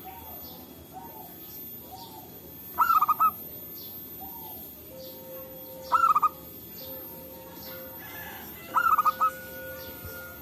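Zebra dove (perkutut) cooing: three short phrases of quick staccato notes, about three seconds apart, with fainter, lower calls between them.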